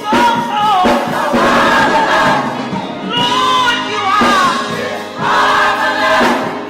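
Gospel choir singing, several voices holding and bending sustained notes together.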